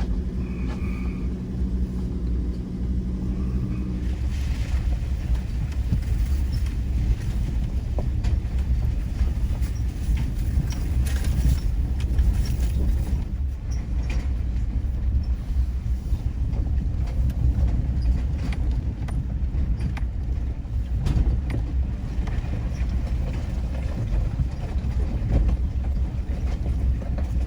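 Ford Ranger towing a trailer, driving slowly over a rough off-road trail: a steady low engine rumble, with scattered knocks and rattles from the bumps. A clearer engine note is heard for the first few seconds and then fades into the rumble.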